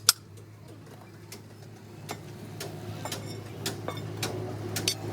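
Light, sharp taps of metal on metal, about ten at uneven intervals, over a steady low hum.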